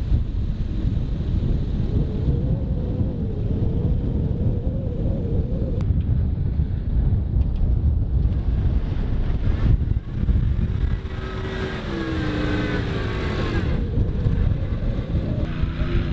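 Motor vehicle driving, with a heavy low rumble throughout and the engine's pitch wavering up and down at times.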